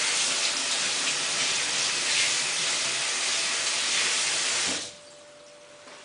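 Samsung WF8804RPA washing machine taking in water through its inlet valve, a loud steady rush of running water that cuts off suddenly near the end.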